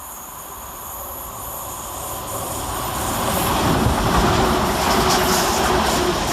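Two coupled Class 350 Desiro electric multiple units approaching on the rails, growing louder over about four seconds and then running close by with loud wheel and rail noise and a faint steady whine.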